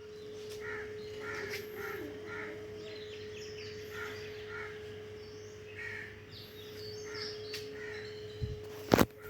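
Birds calling in a run of short repeated calls over a steady faint hum, with a sharp knock near the end.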